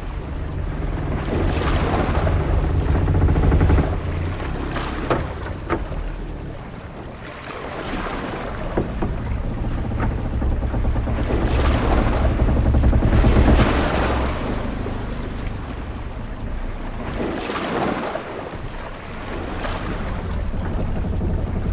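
Ship-at-sea ambience: sea waves washing in slow swells over a steady low rumble, with wind. A few short knocks come through in the middle.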